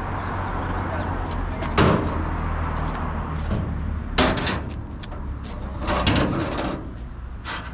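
Small Kubota compact tractor's engine running steadily, with four loud, sharp clanks or bangs spread through it, about two seconds apart.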